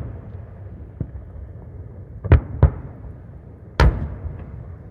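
Fireworks bursting: a faint pop about a second in, two loud bangs in quick succession a little past two seconds, and another loud, echoing bang near four seconds.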